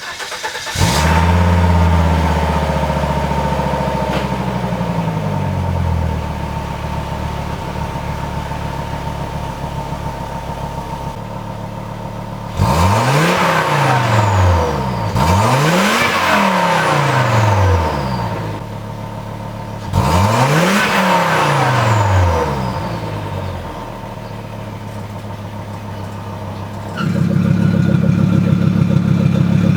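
Volvo 850 T-5R's turbocharged five-cylinder engine, breathing through a full custom stainless steel exhaust. It catches about a second in, and its revs fall as it settles to a steady idle. It is blipped three times, each rev dropping back to idle with a high whistle falling away, and it is held at higher revs near the end.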